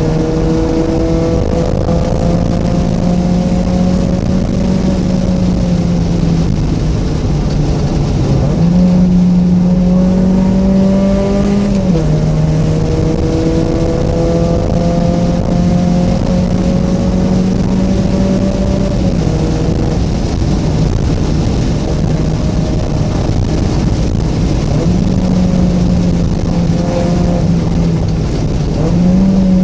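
Mazda Miata's 1.6-litre four-cylinder engine with aftermarket headers and exhaust, driven hard: the engine note climbs steadily through each gear and drops sharply at each gear change, several shifts in a row.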